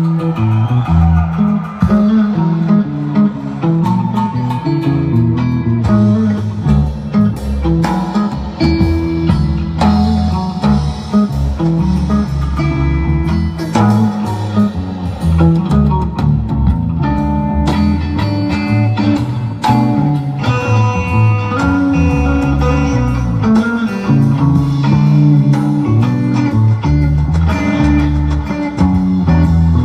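Live band playing an instrumental jam with no singing: guitar lines over a moving bass line.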